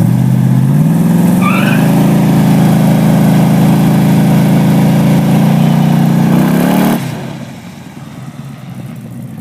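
Pontiac 455 V8 through 2 1/2-inch Goerlich mufflers and long-branch exhaust manifolds, at full throttle on a drag strip run. The pitch climbs over the first two seconds and then holds high, falls briefly, and the sound drops off sharply about seven seconds in.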